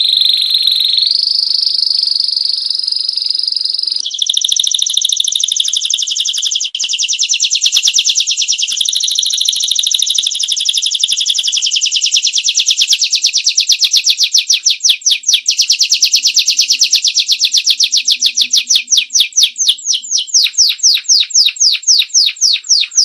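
Canary singing a long rolling trill of rapidly repeated high notes, the repeats slowing noticeably in the last few seconds.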